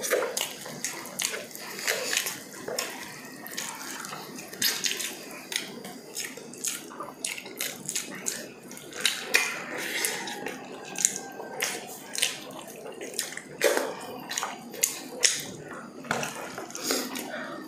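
Close-up wet chewing and lip-smacking of people eating saucy pork ribs by hand, with irregular sharp smacks coming several a second at times.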